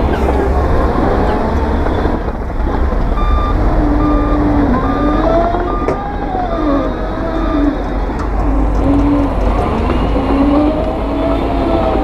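Heavy diesel construction machinery running, its pitch rising and falling, with a reversing alarm beeping steadily for a few seconds in the middle.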